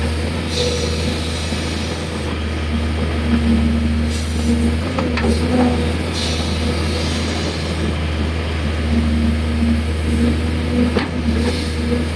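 Hydraulic excavator's diesel engine running steadily, with a few sharp clicks.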